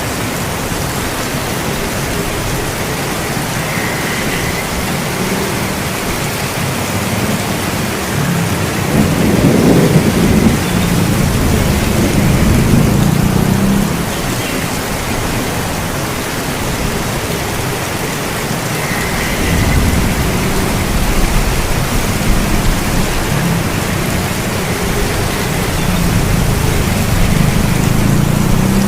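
Steady heavy rain, with rolls of thunder rumbling three times: the loudest about nine seconds in, another around twenty seconds, and a third near the end.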